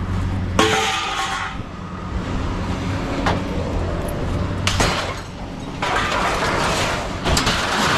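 Scrap metal crashing and clattering as it is dumped, in several loud crashes with a long one near the end, over the steady hum of a running engine.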